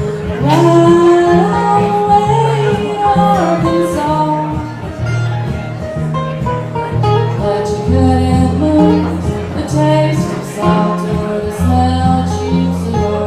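Live Americana/country band playing an instrumental break: guitars and bass keep a steady chord pattern under a gliding lead melody.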